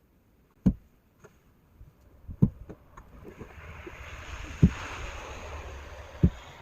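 Shovel working heavy, wet snow: dull thumps every couple of seconds and a long scraping hiss that builds up in the second half.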